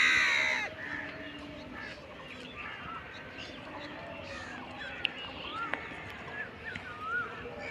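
Birds calling: a loud, harsh call in the first moment, then scattered short, curved chirps.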